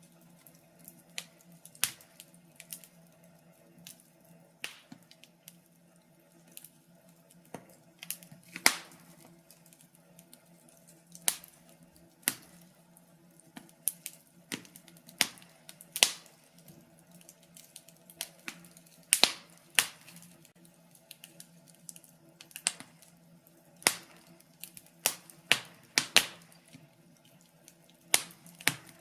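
Wood fire crackling, with irregular sharp pops and snaps of varying loudness, a few louder ones clustered around the middle and near the end. A faint steady low hum runs underneath.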